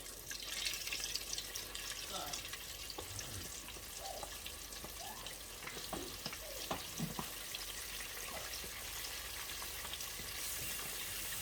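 Flour-coated chicken wings frying in hot oil in a deep fryer: a steady crackling sizzle with many small pops.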